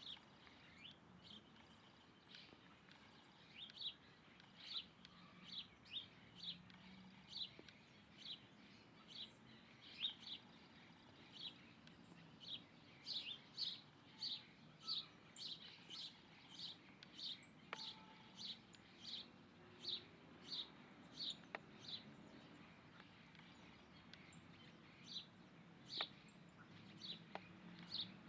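Bird chirping: short, sharp, high-pitched chirps repeated over and over, about one a second at first and closer to two a second in the middle.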